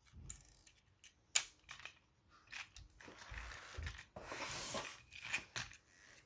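Hands handling a plastic toy engine and its packaging: scattered light clicks and knocks, with a stretch of rustling about three seconds in.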